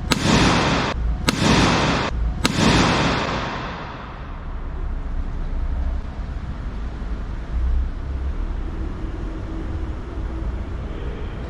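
Pyrotechnic charge of a car restraint-system part being set off: three sharp blasts, each followed by a rushing hiss, within the first three seconds, the last dying away about a second later.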